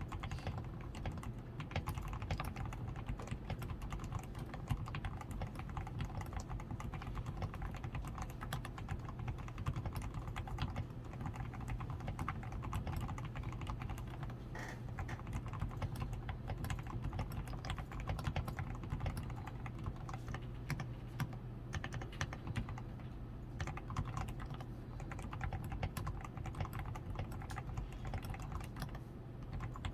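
Continuous fast typing on a DAREU A87 Pro mechanical keyboard with fully lubed switches, a tape-modded PCB, foam-damped switches, XDA keycaps and lubed stabilisers: a dense, even stream of soft key clacks.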